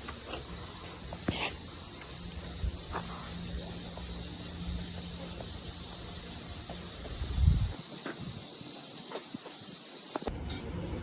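Steady high-pitched chorus of insects in the surrounding trees, with scattered faint clicks and a low thump about seven and a half seconds in.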